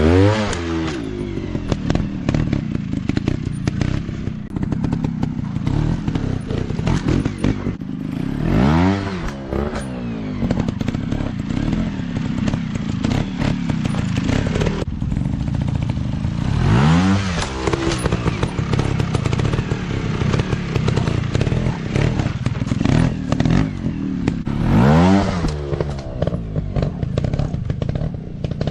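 Off-road motorcycle engines running, one revving up and dropping back four times, about eight seconds apart.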